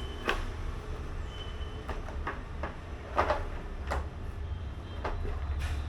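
A tank panel being handled and fitted onto a motorcycle's fuel tank: about five separate knocks and clacks, the loudest a little after three seconds, over a steady low hum.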